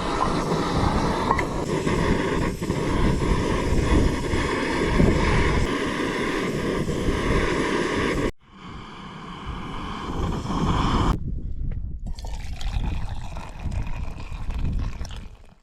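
Steady rushing of wind and rain, with dripping water, broken twice by edits.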